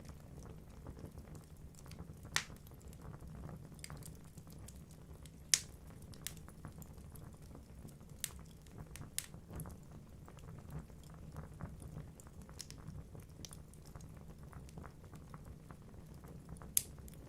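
Wood fire burning in a fireplace: a low steady rush of flames with scattered crackles and a few sharp pops from the logs, the loudest about 2 s, 5.5 s and near the end.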